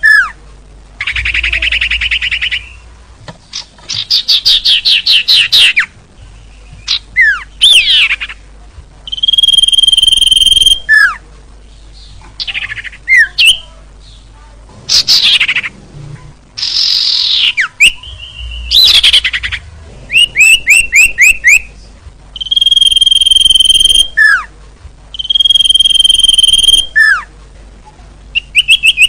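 A recorded songbird lure call (suara pikat) playing: high held whistled notes, rapid trills and sharp downward-sweeping calls, the same phrases repeating every few seconds as in a loop, meant to draw small birds in close.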